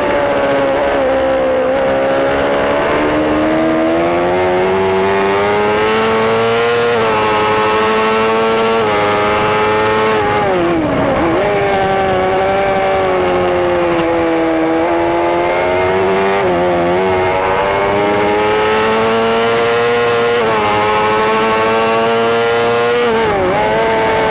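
On-board sound of a superbike's engine at racing speed, the pitch climbing steadily under acceleration and dropping sharply several times as the rider brakes and downshifts for corners, then climbing again.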